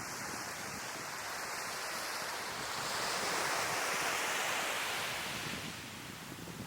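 Sea waves washing onto the shore: a steady hiss of surf that swells to its loudest about three to four seconds in, then draws back.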